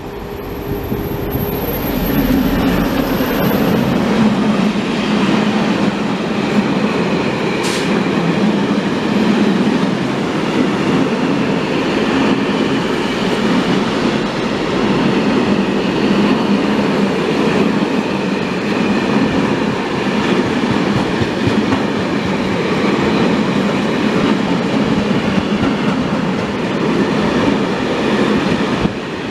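A train running past on the track at close range, building up over the first couple of seconds and then holding a loud, steady rumble of wheels on rails, with one brief sharp click about eight seconds in.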